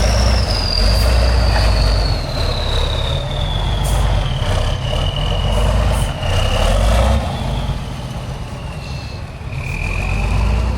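Heavy off-road competition truck's engine working hard with a deep, steady rumble. A high whine slowly falls in pitch over several seconds, and the engine eases off about seven seconds in.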